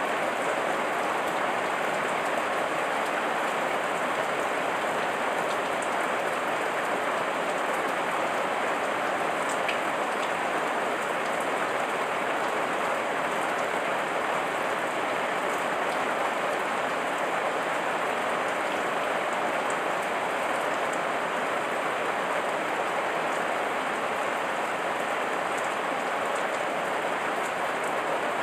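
Heavy rain falling steadily: a dense, even hiss of many drops, with no change in strength.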